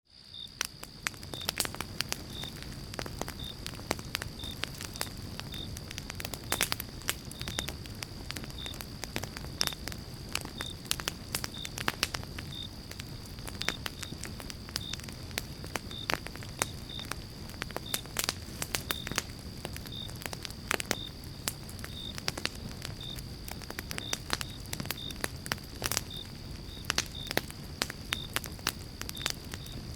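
Pine-log campfire burning with a steady low rumble and frequent irregular crackles and pops; it fades in at the start.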